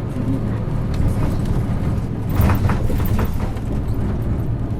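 Isuzu Erga city bus's six-cylinder diesel engine running steadily, heard from inside the cabin while the bus drives, with a brief clatter about halfway through.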